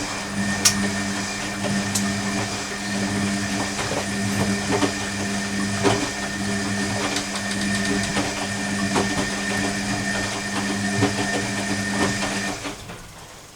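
Hoover Electronic washing machine running early in its cottons 40 cycle: a steady low electrical hum with scattered clicks and knocks. The hum cuts out about a second before the end.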